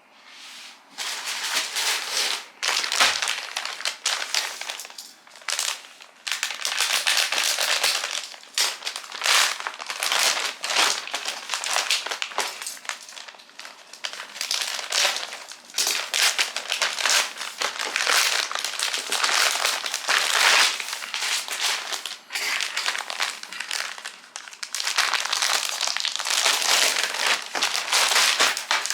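Plastic packaging bag crinkling and rustling as a piece of clothing is unwrapped by hand, in irregular surges, starting about a second in.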